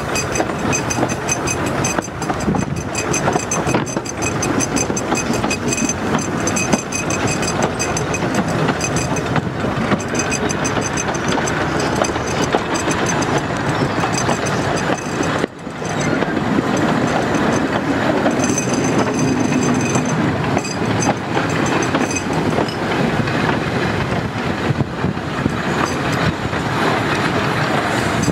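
Narrow-gauge railway coach running along the line, heard from its open window: a steady rumble and clatter of wheels on the rails, dipping briefly about halfway through.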